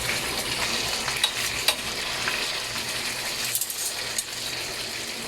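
Chicken drumsticks sizzling in a pan of garlic butter sauce as they are tossed and stirred, with a few clicks of the utensil against the pan.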